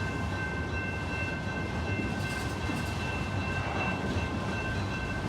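Freight train cars rolling past: a steady rumble of steel wheels on the rails, with a faint steady high whine over it.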